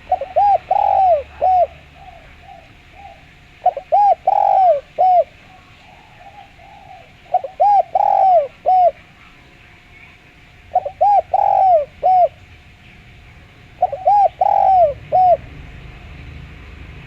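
Spotted dove (derkuku) cooing in a clear voice. It repeats the same phrase about every three and a half seconds, five times: a few short notes, one longer one, then a short closing note.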